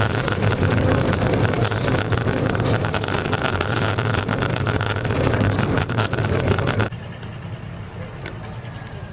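Longboard wheels rolling over rough pavement: a loud, steady rumble packed with small clicks and rattles. About seven seconds in it cuts suddenly to a quieter, duller steady noise.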